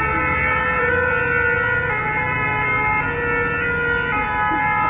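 Ambulance siren sounding as it passes, a steady two-tone wail stepping back and forth between two pitches about once a second, over street traffic noise.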